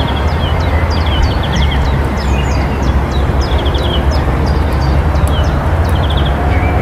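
Many small birds chirping, with short falling notes and quick trills repeating, over a steady low rumble that is the loudest sound.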